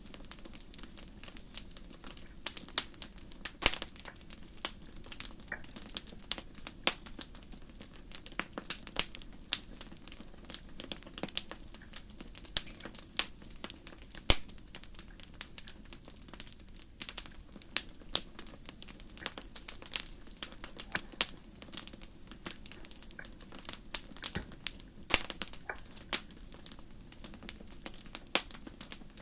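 Fire crackling, with dense, irregular sharp pops and snaps over a steady low rumble.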